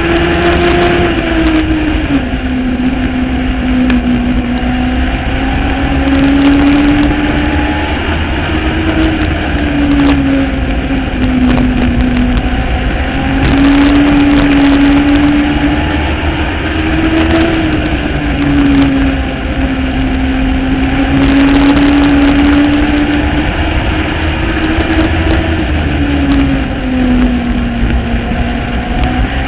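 Legends race car's Yamaha motorcycle-derived four-cylinder engine running hard, its pitch climbing and dropping every few seconds as it accelerates and lifts around a short oval.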